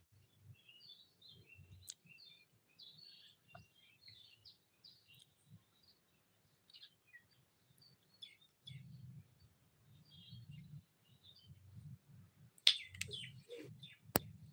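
Small birds chirping over and over, with a faint low rumble beneath. Near the end come two sharp clicks, the first and louder about two seconds before the end, the second just before it.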